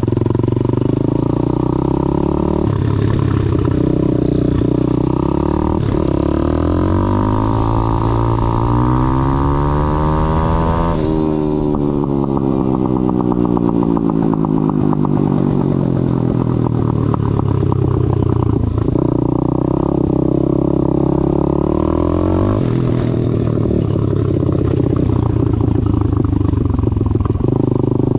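Single-cylinder four-stroke Daytona 190cc engine of a YCF SP3 F190 pit bike running hard under riding, its note rising and falling with the throttle. One long climb in pitch cuts off abruptly about halfway through, and the note then falls away.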